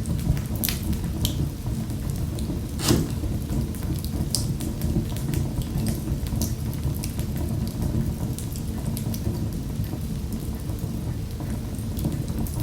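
Wood fire in a fireplace crackling and popping, with frequent sharp snaps over a steady low rumble of the flames. One loud pop comes about three seconds in.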